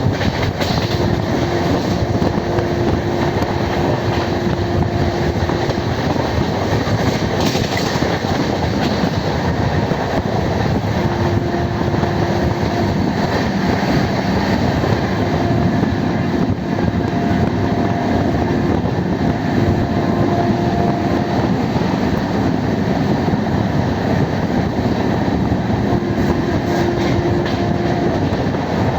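Punargiri Express passenger train running along the track: a steady, loud rumble of wheels and coaches. A faint humming tone comes and goes over it several times.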